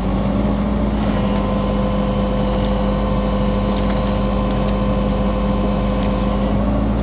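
Heavy diesel machinery engine running steadily under load, its pitch stepping up a little at the start and then holding.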